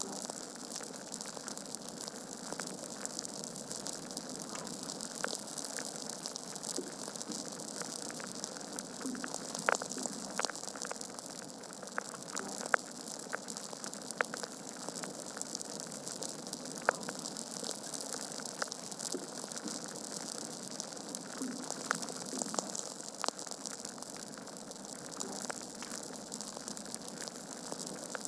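Wood logs burning in a fireplace: a steady soft hiss with irregular sharp crackles and pops, a few of them louder, near ten, thirteen and seventeen seconds in.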